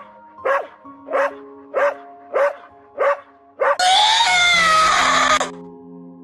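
An animal barking in an even series, about one bark every 0.6 seconds, five in all, over gentle background music with held notes. About four seconds in a much louder, long wavering cry lasts about a second and a half.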